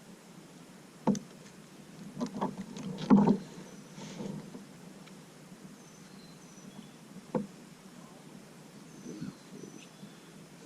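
Sharp handling knocks on a kayak: one about a second in, a cluster of knocks from about two to three and a half seconds in (the loudest), and a single knock about seven seconds in, over a faint steady hiss.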